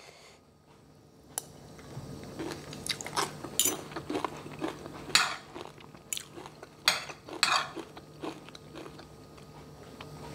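Close-miked chewing of crunchy stir-fried mustard greens: crisp crunches come irregularly, loudest in the middle. A single click about a second and a half in.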